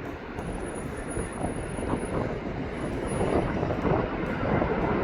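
Jet airliner engines making a steady, loud rumbling roar that swells a little after the middle, with a faint high whine in the first half.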